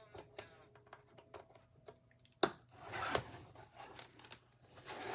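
Handling noises while a newly unboxed makeup mirror and its parts are dealt with: small clicks and knocks, a sharp click about two and a half seconds in, and rustling of packaging around three seconds and again near the end.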